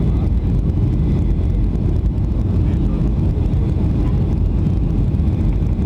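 Steady, loud low rumble of a Boeing 757-300's engines and rushing air, heard inside the passenger cabin, with no distinct thumps or bumps.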